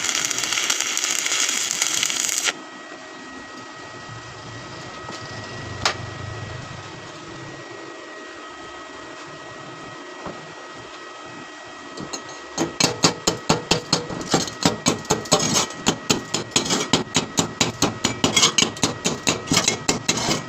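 Stick-welding arc crackling steadily, cutting off about two seconds in. Then a quieter stretch with a faint steady hum and one click, and from a little past halfway, rapid sharp hammer knocks on metal, about four a second.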